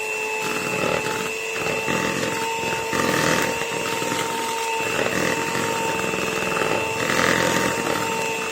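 Electric hand mixer switched on and running steadily with a motor whine, beating an egg into creamed butter and sugar.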